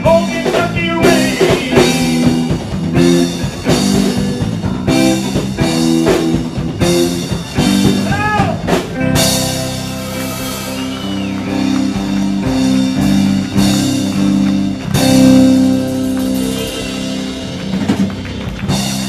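Live band playing the instrumental ending of a song: drum kit and guitar over sustained chords, with cymbal crashes about nine and fifteen seconds in.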